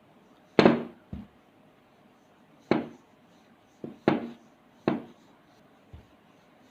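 Rolling pin knocking against the board while rolling out layered mathi dough: a series of about seven irregular knocks, the loudest about half a second in.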